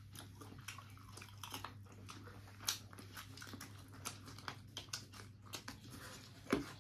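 A person chewing and smacking mouthfuls of meat curry, with irregular wet clicks of lips and teeth, one louder about two and a half seconds in and another near the end. A low steady hum runs underneath.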